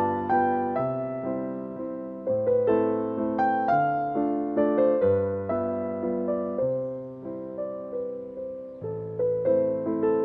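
Soft piano music: a melody of single notes over slow, held chords, each note struck and then fading.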